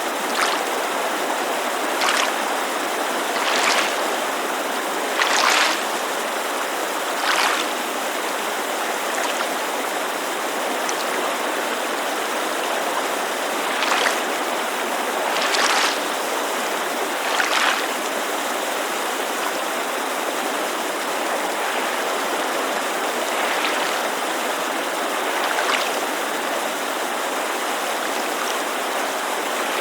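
Small waves lapping at a lakeshore in soft swells about every two seconds, coming in groups with calmer spells between, over the steady rush of a mountain creek.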